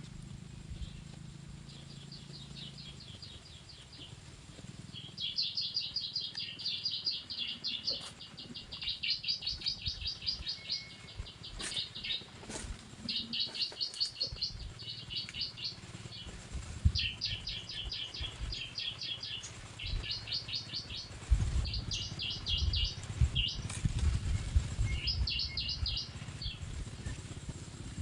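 Bar-winged prinia (ciblek) song played as a lure from an MP3 caller: rapid trilled phrases of quick repeated notes, each lasting a second or two, repeated over and over with short gaps. Low thumps sound underneath, mostly in the last third.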